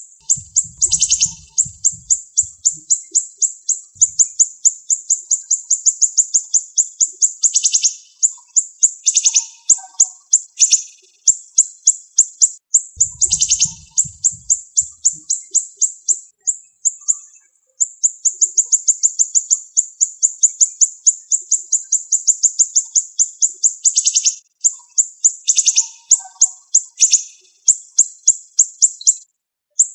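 A siri-siri songbird singing long, fast series of sharp, high, closely spaced notes that break off and restart every few seconds. A brief low rumble comes about a second in and again about 13 seconds in.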